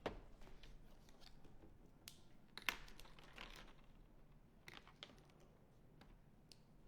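Faint scattered clicks, taps and short rustles of painting supplies being handled on a table. There is a sharper click at the start, the loudest about two and a half seconds in, and another cluster near five seconds.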